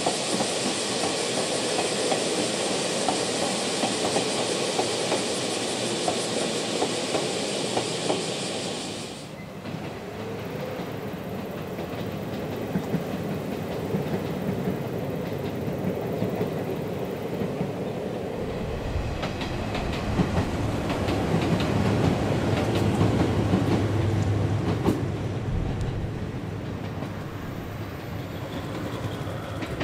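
Izuhakone Railway Sunzu Line electric trains running past, with wheel clicks over the rails. The sound changes abruptly about nine seconds in, and a deep rumble builds from about eighteen seconds, loudest around twenty-three seconds, then eases.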